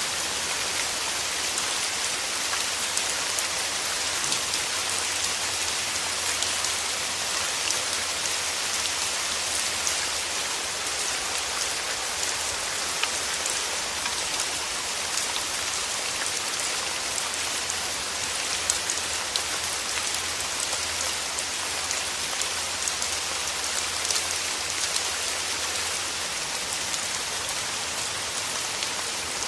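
Steady rain falling: a constant hiss with many small, sharp raindrop ticks scattered through it.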